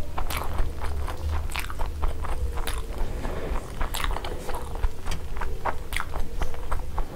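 Close-miked chewing of a full mouthful of fried eggs: irregular wet clicks and smacks, a few each second.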